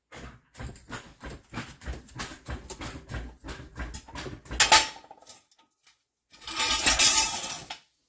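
Metal tools and parts clinking and knocking in quick irregular taps during car repair work, with one loud metallic clank a little under five seconds in that rings briefly, then a rushing noise lasting over a second near the end.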